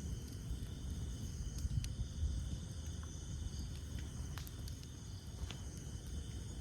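Wood campfire burning with a low rumble of flames and occasional sharp crackles and pops, over a steady background chorus of night insects.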